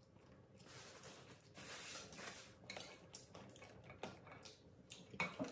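Faint clicks and rustling of cooked lobster shell pieces being handled and pulled apart by hand on a plate, with light clinks of tableware.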